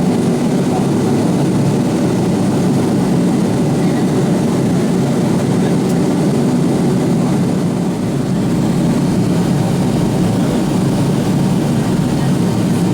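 Steady cabin noise inside an Avro RJ-85 airliner in flight: the even drone of its four turbofan engines and the airflow, heaviest in the low range.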